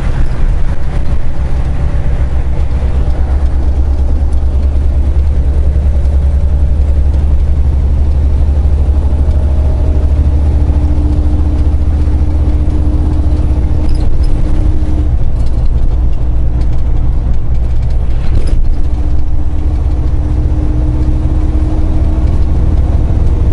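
Semi truck's diesel engine and road noise heard inside the cab while driving: a steady low rumble, with a faint humming tone that fades in and out and a couple of small clicks.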